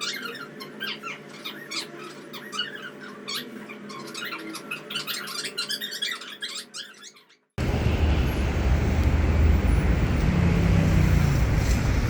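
Repeated short squeaks and clicks over a soft sustained background tone. After a sudden cut about seven seconds in, a loud steady low rumble of a moving vehicle takes over.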